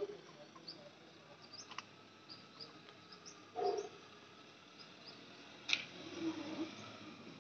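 Scattered short, high bird chirps over a quiet background, with a brief louder call about three and a half seconds in and a single sharp click near six seconds.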